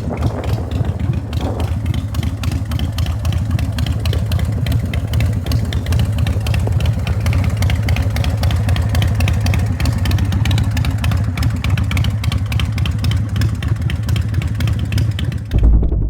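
Big Dog Ridgeback motorcycle's V-twin engine idling steadily, with a brief louder low thump near the end as the sound dies away.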